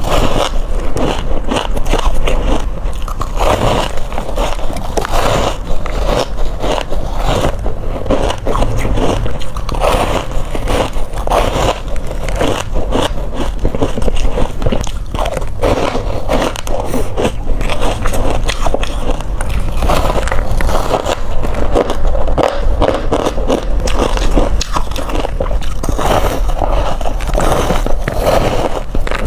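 Crushed ice being bitten close to the microphone: a steady run of loud, rapid crunches with no pauses.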